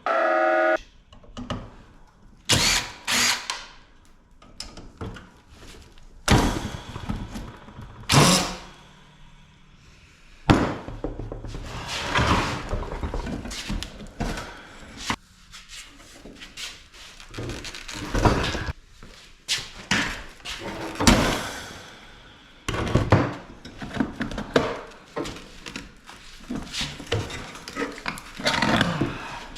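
Hand-tool work on a scrapped air-conditioner unit: repeated metal knocks and clunks with stretches of scraping and rattling as a motor is worked off it. A short electronic bleep sounds at the very start.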